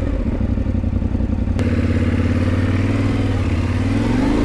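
Adventure motorcycle engine running at low, steady revs on a dirt trail, the pitch rising slightly near the end, with a single sharp knock about a second and a half in.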